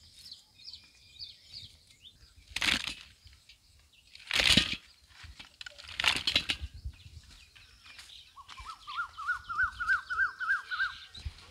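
Birds calling: short high chirps at first, then, about eight seconds in, a quick run of a dozen or so repeated rising-and-falling notes. In between come three brief loud rustling noises, the loudest about four and a half seconds in.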